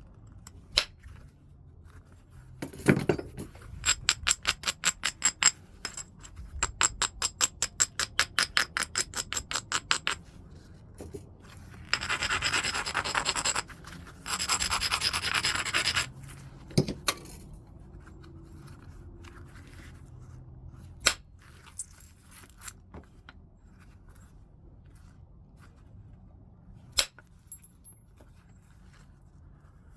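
Flintknapping on heat-treated Burlington chert: a fast run of scraping strokes, about five a second, across the stone's edge, then two spells of steady grinding. Sharp single clicks of stone on stone are scattered throughout.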